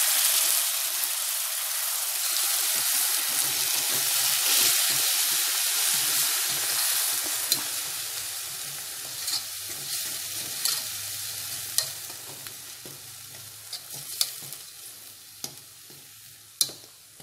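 Fresh tomato paste sizzling in hot oil in an aluminium kadhai as it is stirred with a wire skimmer. The sizzle is loud at first and dies down steadily as the paste cooks in, with scattered sharp clicks of the metal skimmer against the pan in the second half.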